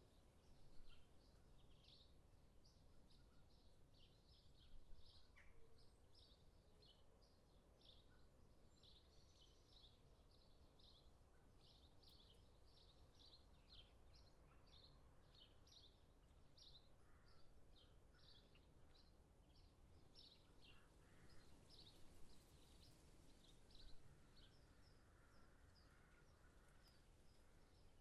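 Near silence with faint, short high chirps, like small birds calling, repeating a few times a second.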